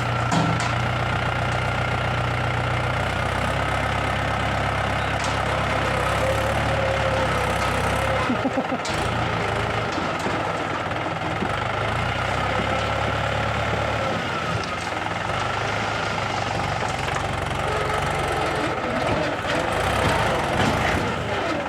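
A JCB 3DX backhoe loader's diesel engine running steadily, with a higher whine wavering above it. The low engine note changes about 14 seconds in.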